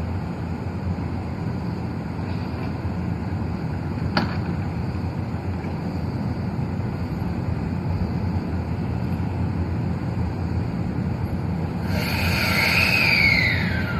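Steady low rumble of an electric train at a station, with a sharp click about four seconds in. Near the end a loud whining tone rises in level, then falls in pitch, typical of a train's motors or brakes as it slows.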